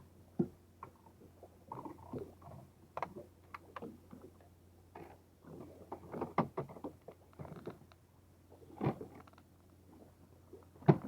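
Irregular light knocks, taps and rustles of things being handled, with one louder thump near the end, over a faint steady low hum.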